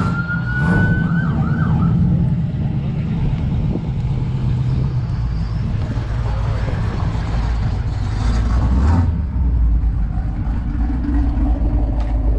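A siren sounds briefly, a tone that rises in the first second, warbles for about another second and stops, over a heavy, steady low rumble that lasts throughout.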